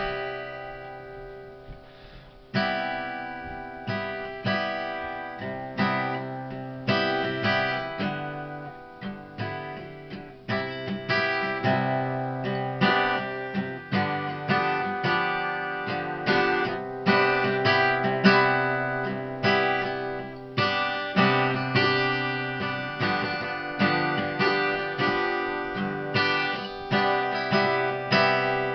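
Acoustic guitar playing an instrumental piece: an opening chord rings out for a couple of seconds, then a steady pattern of strummed and picked chords with an accent about once a second.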